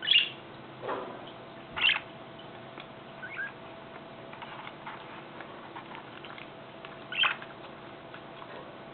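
Budgerigars giving a few short, scattered chirps, with a faint steady hum underneath.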